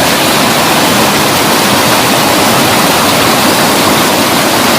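Water of a hillside waterfall rushing over rocks: a steady, even hiss of falling water.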